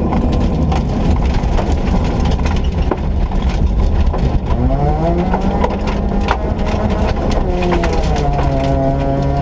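Rally Ford Ka's 1.4-litre engine heard from inside the car, the revs climbing about halfway through, then dropping and building again near the end. Stones and grit clatter against the car's underside throughout.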